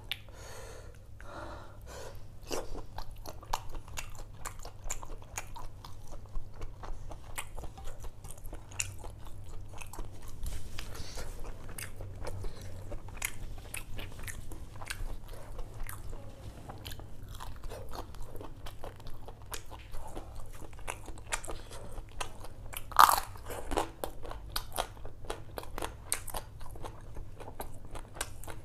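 Close-up eating sounds: steady chewing and crunching with wet mouth clicks as fried prawns and curried rice are eaten. One louder, sharper crunch comes about two thirds of the way in.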